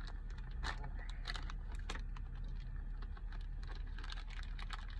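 Plastic protein-bar wrapper crinkling with many irregular sharp crackles as it is opened and handled, over the steady low rumble of a car on the road.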